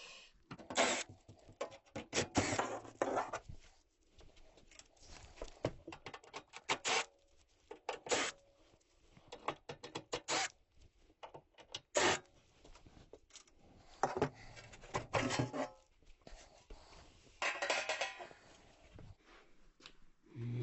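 Irregular clicks, knocks and rattles from hands working on furnace parts and tools, with several louder knocks spread through and rustling in between.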